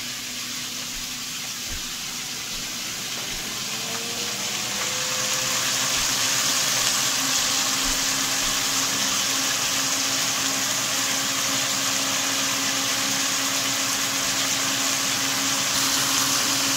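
Shrimp sizzling in hot oil in a pan, the sizzle growing louder about four to six seconds in. A steady hum comes in about four seconds in, rising briefly in pitch and then holding.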